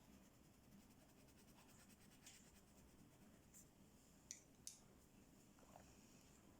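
Faint scratching of a coloring pen or pencil on paper, with two light clicks in quick succession about two-thirds of the way through.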